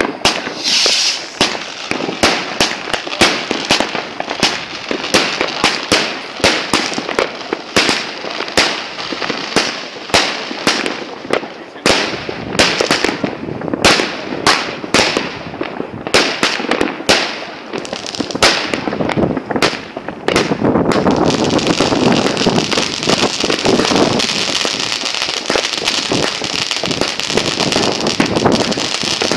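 Fireworks going off close by, picked up by a mobile phone's microphone: a rapid, irregular run of sharp bangs and cracks for about twenty seconds, then a dense, steady crackling for the last third.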